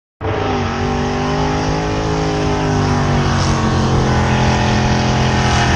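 Drag-racing car's engine running loud at high, nearly steady revs, its pitch dipping slightly in the first second. It starts abruptly.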